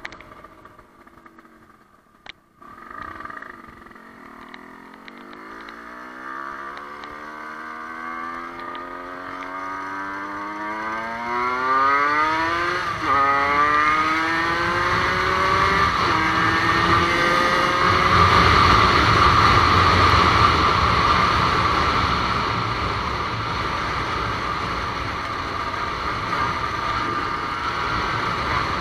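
Dirt bike engine pulling away and accelerating through the gears: its pitch climbs steadily for several seconds, drops sharply at a gear change about halfway through and again a few seconds later, then holds steady at cruising speed with wind rushing over the microphone. The first two seconds are quieter, with a sharp click about two seconds in.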